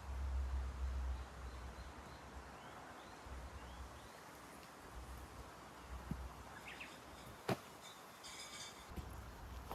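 Outdoor woodland ambience: a small bird giving short rising chirps over and over, over a low rumble, with one sharp knock about three quarters of the way through and a lighter tick near the end.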